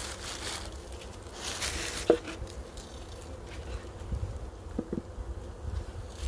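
Honey bees buzzing in a steady hum around an opened hive, stirred up by the disturbance. Handling noises over it: a rustle, a sharp click about two seconds in and a pair of light knocks near five seconds.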